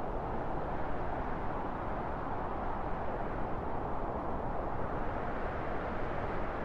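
Strong steady wind, a low even rushing with no single gust standing out.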